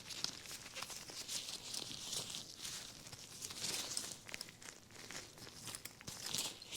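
Jade roller worked by nitrile-gloved hands over skin close to the microphone: a soft rubbing and crinkling with many small clicks, swelling and easing as it sweeps.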